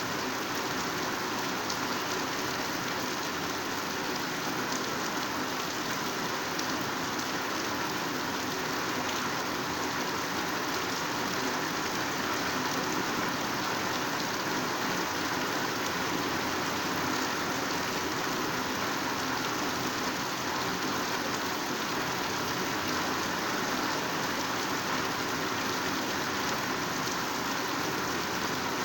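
Heavy rain falling steadily on foliage, a dense, even hiss of drops with no change.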